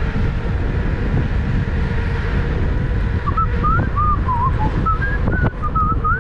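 A person whistling a wavering tune, starting about three seconds in, over a steady rumble of wind on the microphone.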